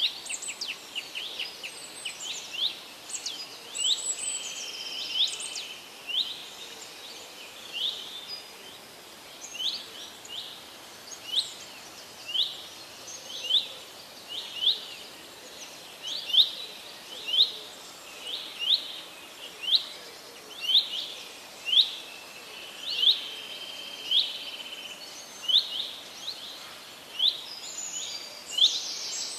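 A small bird repeats a short, high, gliding chirp, quickly at first and then about once a second, over a faint steady hiss of forest ambience.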